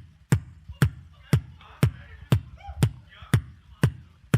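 Beatboxing a simple beat: sharp kick and snare hits evenly spaced, about two a second, with short pitched vocal sounds between the hits.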